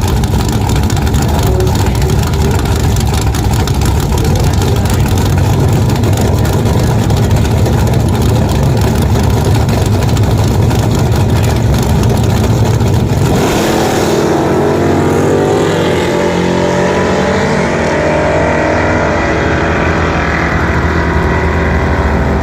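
Drag race car's V8 engine running hard and loud for about thirteen seconds, a length that fits a full quarter-mile pass at around twelve seconds. It then drops to a lower, uneven engine note whose pitch wanders as the car comes off the throttle and slows.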